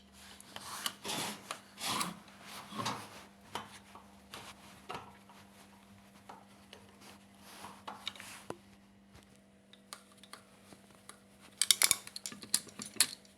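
Flat screwdriver scraping and prying at the carbon brush holders of a Samsung washing machine motor: irregular scrapes and clicks, with a quick run of sharper clicks near the end.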